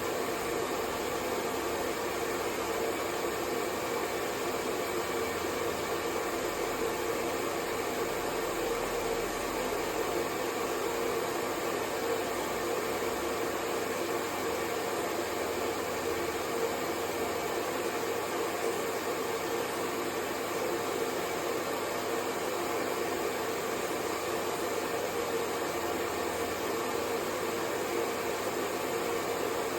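Hair dryer blowing at a constant speed: a steady, even whoosh of air with a faint motor hum, unchanging throughout.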